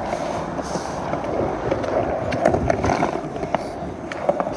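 Skateboard wheels rolling fast over wet pavement and through a puddle, a continuous gritty rumble with scattered clicks and rattles from the board.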